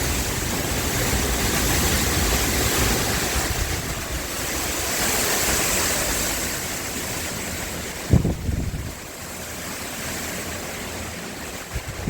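Gusty wind rushing over the microphone with a rumbling, fluctuating noise. A single low thump comes about eight seconds in, and after it the wind noise is quieter.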